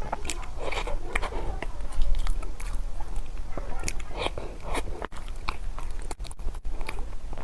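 Close-miked eating sounds: biting and chewing with many irregular crunchy clicks, over a steady low hum.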